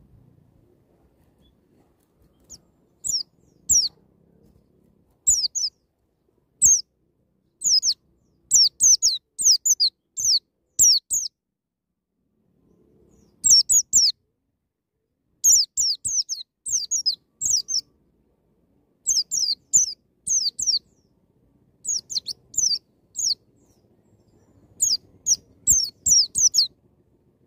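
White-eye (pleci) singing in the 'ngalas nembak' style: clusters of quick, high, down-slurred notes given in rapid runs, with short pauses between the runs and a longer break about halfway through.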